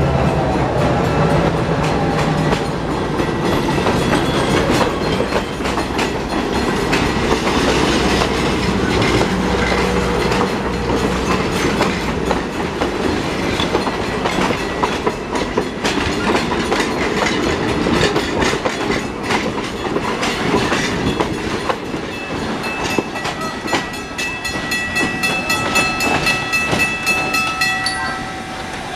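Train rolling past, its wheels clicking over the rail joints, with a high steady ringing joining in near the end.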